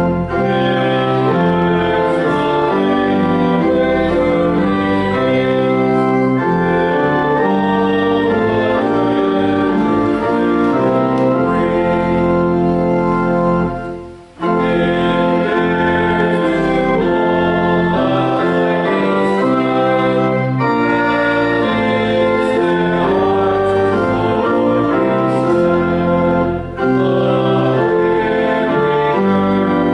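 Organ playing sustained chords that change every second or so, with a brief break about halfway through and a shorter one near the end.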